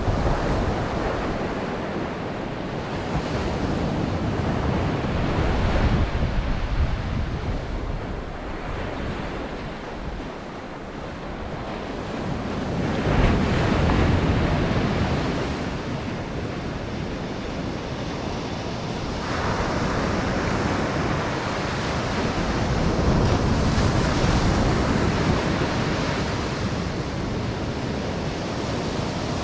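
Ocean surf breaking and washing up a beach, the roar swelling and fading in slow surges, loudest about halfway through. Wind buffets the microphone.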